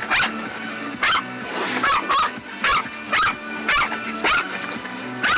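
A dog barking over and over in a steady run, about two barks a second. She is worked up by the water spray of a car wash.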